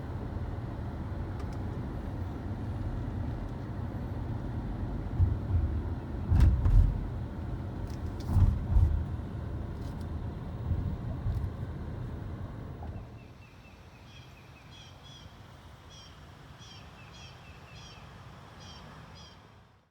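Low rumble of wind and jostling on a camera carried by a runner, with several heavy bumps. It drops away about two-thirds of the way through, leaving quieter ground noise and repeated short bird chirps.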